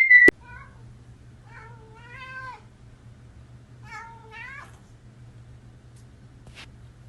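A cat meowing twice, each meow about a second long with a wavering pitch, after a short faint chirp. At the very start a loud, steady, high whistle-like tone cuts off abruptly, and there is a single click near the end.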